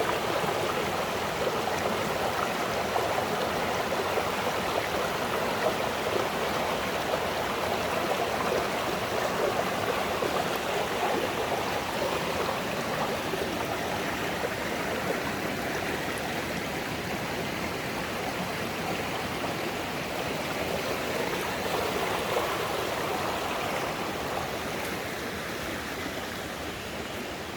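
Mountain stream flowing steadily, a constant rush of water that grows slightly quieter near the end.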